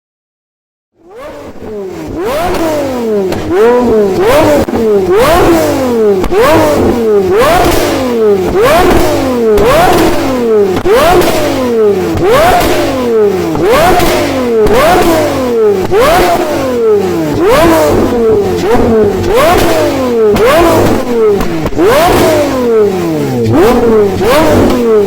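An engine revving up and dropping back over and over, about once a second, its pitch climbing each time and then falling suddenly. It starts about a second in and keeps going.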